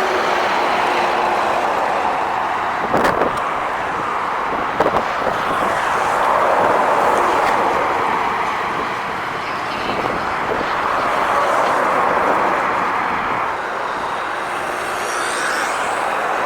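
Heavy trucks driving past on a road: a steady rushing noise of engines and tyres that swells and fades twice, with a couple of short knocks about three and five seconds in.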